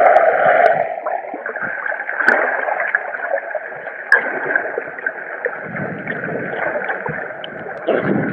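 Muffled water sloshing and splashing around a swimmer snorkeling in the sea, louder in the first second and then settling, with a few small sharp ticks.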